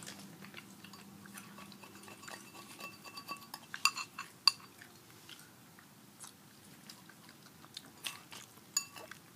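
Crunchy chewing and biting of nacho tortilla chips, with scattered small clicks of handling food and dishes. Two sharper, louder clicks come about four seconds in.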